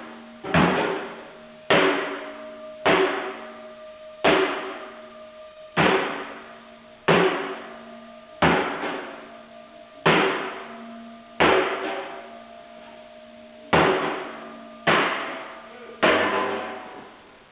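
Hammer blows on an old stove being dismantled, a dozen or so strikes about one every second and a half. Each strike leaves a short metallic ring.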